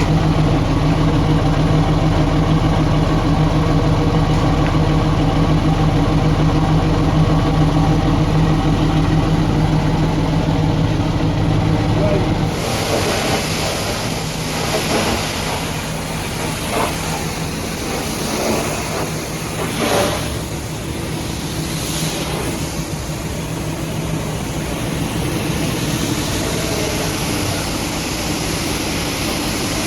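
A truck engine idling steadily, cut off abruptly about twelve seconds in by a steady hiss of high-pressure water spray with a few irregular splashes.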